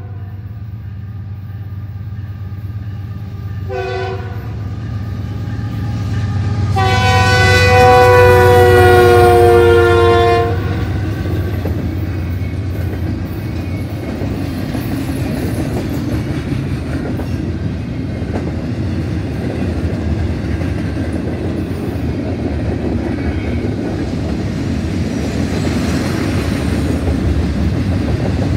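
Freight locomotive air horn: a short blast about four seconds in, then a long loud blast from about seven to ten seconds, its pitch sliding down as the lead locomotive passes. After that, the steady rumble of double-stack container well cars rolling by, with wheels clacking on the rails.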